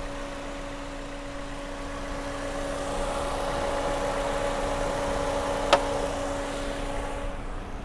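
Toyota Yaris's 1.5-litre 1NZ-FE four-cylinder engine idling steadily and smoothly, a constant hum. A single sharp click sounds a little before six seconds in.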